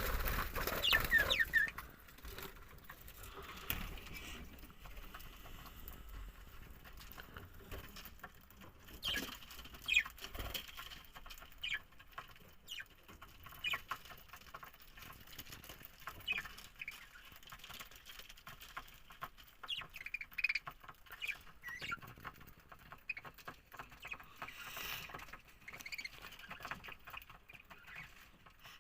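Budgerigars giving scattered short, sharp chirps, with faint clicking and scratching throughout. The sound is louder in the first second or two.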